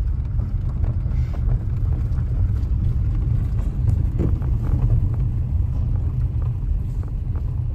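Steady low rumble of road and engine noise inside the cabin of a moving Toyota C-HR.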